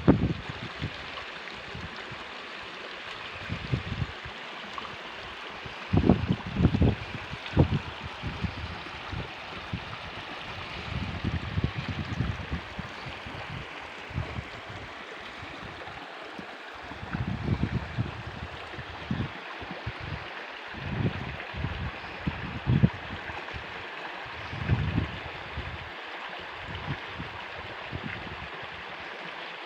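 Stream water flowing steadily, with irregular low rumbles breaking in every few seconds.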